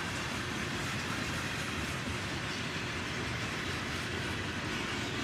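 Freight train cars rolling past, the wheels running steadily over the rails.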